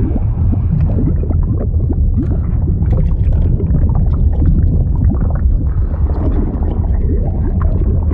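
Liquid sound effect of deep, continuous bubbling and gurgling, with a steady low rumble under many small bubbly glides.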